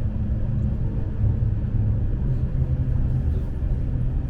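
Steady low rumble of a Lastochka (Siemens Desiro RUS) electric train under way, heard from inside the carriage, with a faint steady hum over it.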